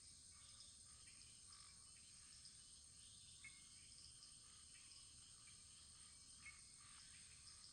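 Faint wood fire crackling: a soft steady hiss with scattered small pops and snaps, two of them a little louder.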